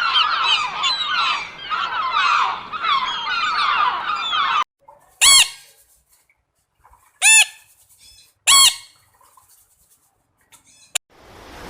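A flock of poultry calling all at once in a dense, overlapping chatter, which stops about four and a half seconds in. Three loud single calls follow, about a second and a half apart.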